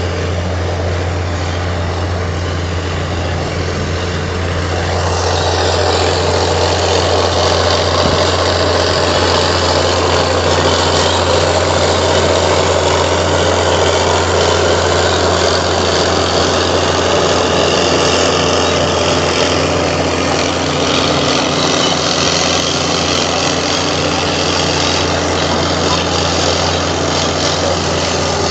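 Komatsu D58 bulldozer's diesel engine running steadily with a deep hum, growing louder about five seconds in as it works harder, then easing off slightly near the end.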